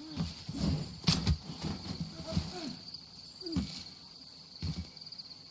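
Night insects chirring steadily in the film's soundtrack, with several short groans that fall in pitch and a couple of thuds about a second in.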